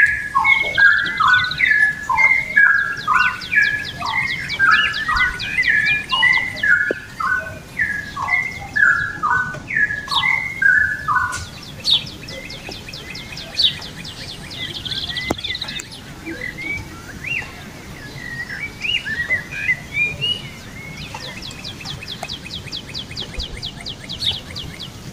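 Songbirds singing: a quick run of short, varied notes that is loud for the first eleven seconds or so, then thins out and gets quieter. A fast high trill repeats every few seconds.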